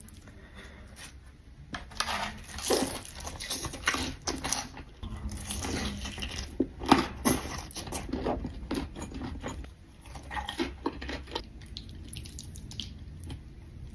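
Close-miked mukbang eating of saucy Buldak fire noodles and chicken tenders: irregular wet, sticky smacks and slurps in bursts from about two seconds in until near the end, easing off over the last couple of seconds.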